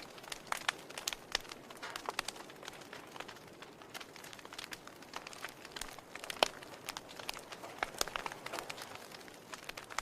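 Wood fire crackling: irregular sharp pops and snaps over a soft steady hiss, with a louder pop about six and a half seconds in.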